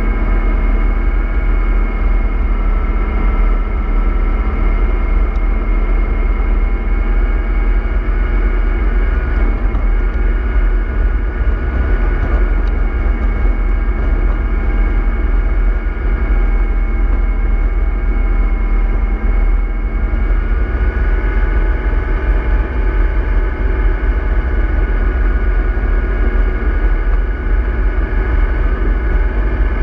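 MAN 24.310 bus's engine and drivetrain running steadily under way, heard from on board: a deep rumble with several whining tones that drift slightly in pitch.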